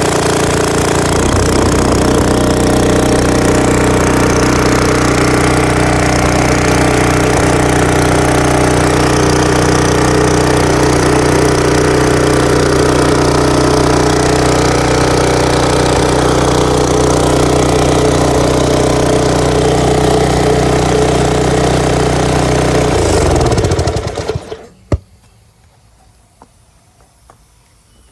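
Small gasoline engine of an old Titan Industrial pressure washer running steadily at full speed, freshly brought back to life with a replacement pump. Near the end it is shut off and runs down to a stop, followed by a single sharp click.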